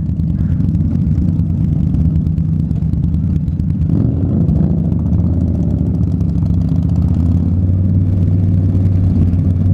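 Motorcycle V-twin engines running steadily, dominated by the Indian Scout Bobber's engine in a low, even drone. The engine note shifts slightly about four seconds in.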